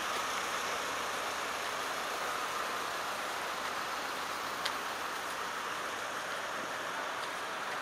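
Steady rushing noise of a vehicle travelling in heavy rain: rain and tyre spray. A single brief click comes about halfway through.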